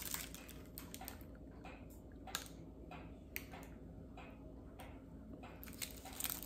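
Faint chewing with a few soft, scattered mouth clicks as a chocolatey cookie dough ball is bitten and eaten.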